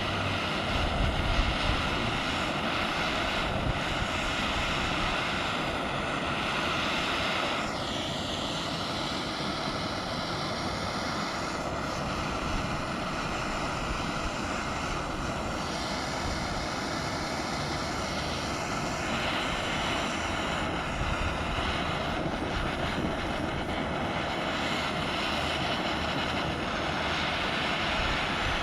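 Handheld gas torch flame burning with a steady rushing noise, heating the aluminum around a boat-hull rivet so the alumiweld brazing rod melts in.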